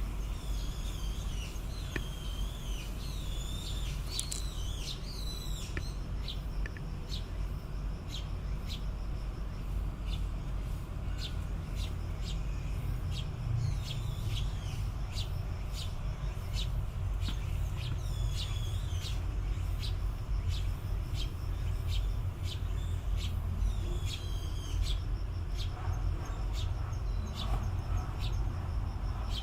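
Asian small-clawed otters chirping: repeated high, wavering squeaks and short clicks, in clusters, over a steady low background rumble.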